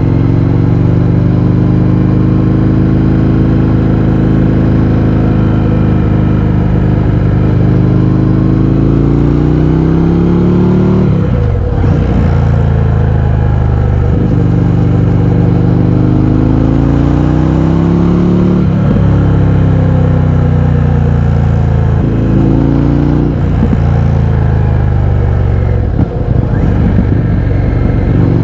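Indian FTR 1200's 1203 cc V-twin through a baffle-less Akrapovič exhaust, under way with the revs climbing and then dropping sharply four times, as at upshifts.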